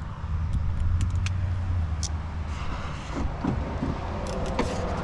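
Light clicks, taps and small rattles of a hand tool being worked on a 10mm bolt inside a car door, over a steady low hum.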